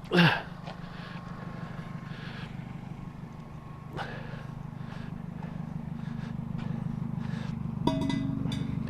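A vehicle engine idling steadily under faint rustling and handling noises, with a short vocal sound at the start. About eight seconds in, a sharp knock and a brief ringing tone from a large glass jug being bumped.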